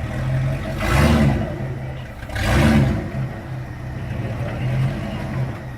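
Off-road 4x4 truck engine revving hard in two loud surges, about a second in and again near three seconds, between spells of steadier running.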